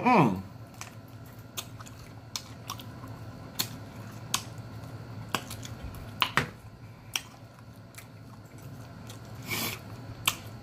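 Close-up chewing and mouth sounds of eating smoked chicken, with scattered sharp clicks of a fork against the plate. A short hummed vocal note with falling pitch at the very start.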